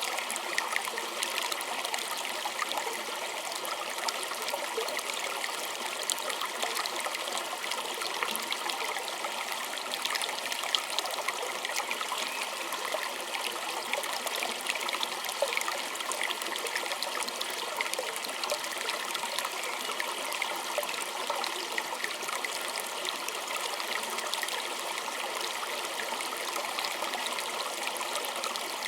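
A small stream trickling over stones, steady, with a dense patter of tiny splashes and little low rumble.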